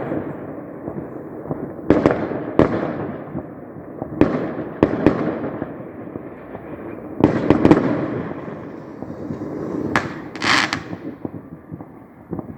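Fireworks going off: a series of sharp bangs every second or two, each trailing off in a rumbling echo, with a brighter crackling burst near the end.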